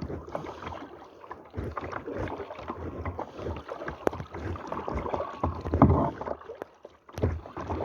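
Kayak paddles dipping and splashing in the water in uneven strokes, with a louder splash or knock just before six seconds in.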